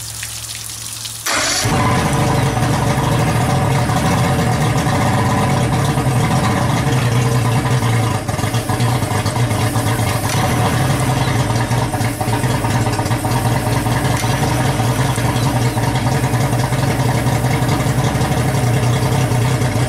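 Johnson J150 outboard engine turning over on the key in a start attempt after a dose of carburetor cleaner. A loud steady mechanical drone kicks in suddenly about a second in and keeps going.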